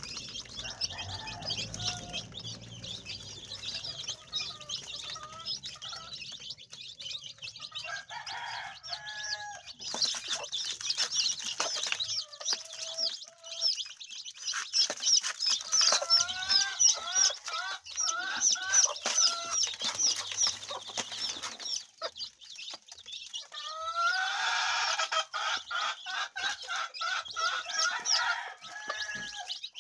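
Domestic chickens clucking and calling over a dense chatter of short high chirps. The calls come in runs, about halfway through and again near the end.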